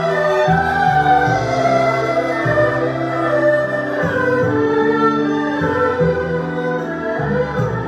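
Erhu and zhonghu ensemble playing a legato melody, the bowed strings sliding between notes over sustained lower parts.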